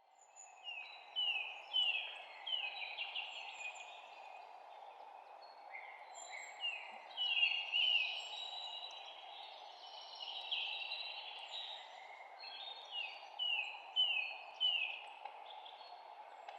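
Songbirds singing: runs of short, quick notes that each slide downward, several a second, repeated in phrases. Beneath them is a steady low rushing background.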